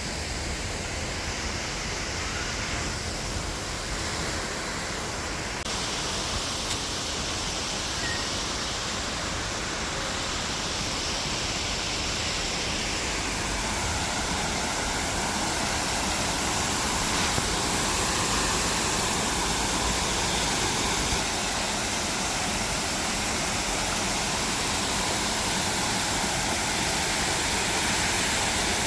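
Waterfall pouring in a steady rush of falling water. Its tone shifts abruptly a few times, and it grows a little louder in the second half.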